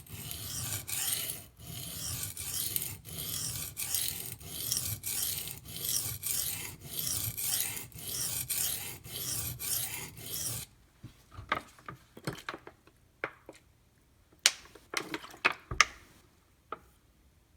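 A D2 steel knife blade being stroked across a coarse 150-grit Kyoto oil stone, a rasping grind in even strokes a little more than one a second; the steel is being abraded by the stone. The strokes stop about ten seconds in, followed by a few light, sharp clicks.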